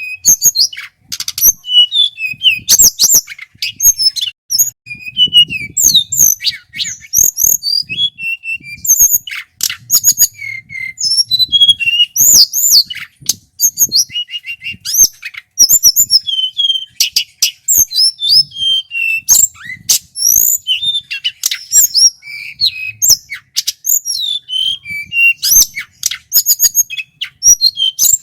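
Male tledekan gunung singing a fast, unbroken run of high whistled notes and short glides, mixed with sharp clicking notes.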